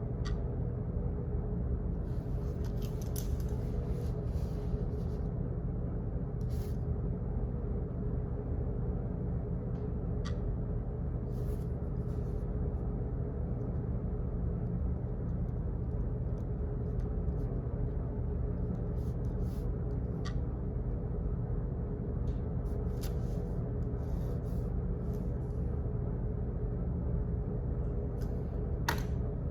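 Office background noise: a steady low hum with scattered, irregular clicks and ticks over it.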